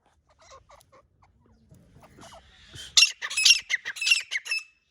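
Female francolin (teetar) calling. A few faint short notes come first, then about a second and a half of loud, rapid, harsh squawking calls near the end.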